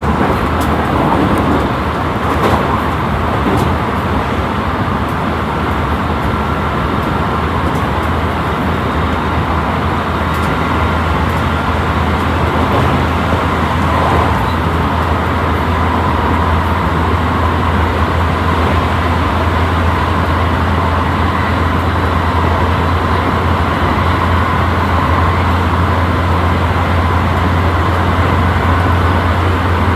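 Running noise of a JR West Special Rapid Service electric train moving at speed: a steady rumble with a low hum and a few sharp clicks from the wheels and rails.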